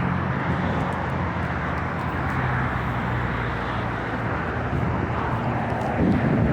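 Steady rumble of road traffic, with a low engine hum underneath.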